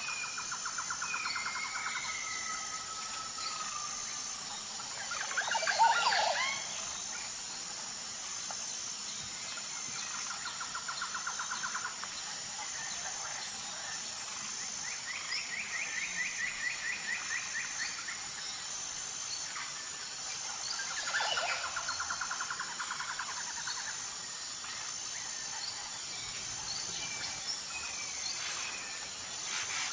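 Outdoor animal chorus: a steady high insect trilling throughout, with several two-second runs of rapid pulsed calls. Two louder chirping calls sweep downward, about six seconds in and again past twenty seconds.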